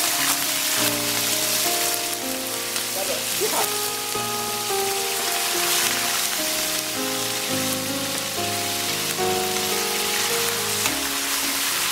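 Beef livers frying in hot cooking oil in a stainless steel pan: a steady, loud sizzle. Background music with held notes plays underneath.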